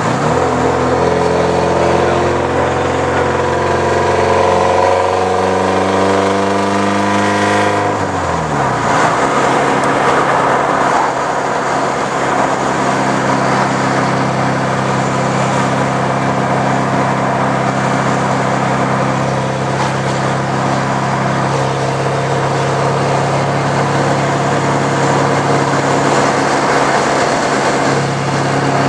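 1983 Porsche 944's 2.5-litre four-cylinder engine through a straight-pipe exhaust, with the catalytic converter and muffler removed. It holds at raised revs, falls quickly about eight seconds in, then runs steadily at low revs.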